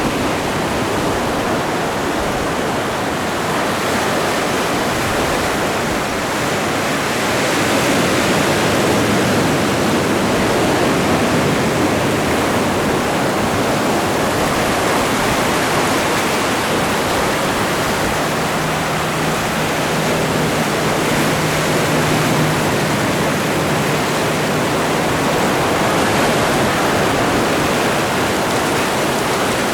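Atlantic surf: waves breaking and washing onto the shore as a steady rush of water noise, swelling gently a couple of times.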